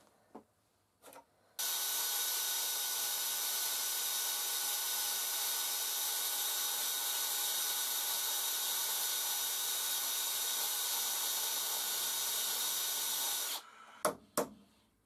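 An electric power tool running at a constant speed for about twelve seconds, switching on and off abruptly, followed by two sharp clicks.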